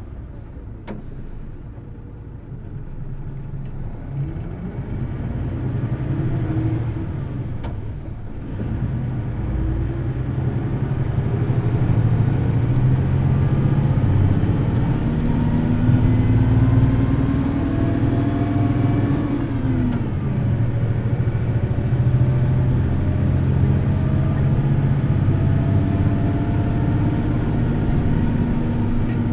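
Hino Blue Ribbon City Hybrid bus pulling away, its diesel engine revving high in two long pulls with a brief drop between them about two-thirds of the way through, as a gear change would give. A thin high whine rises and falls with each pull.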